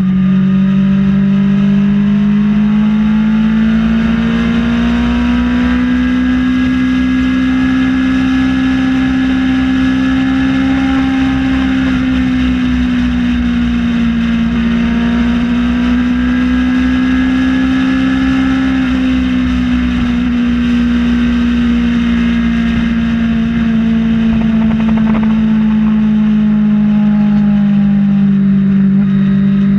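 Kawasaki ZX-6R inline-four engine running at steady cruising revs, its pitch drifting gently up and down, over steady wind rush.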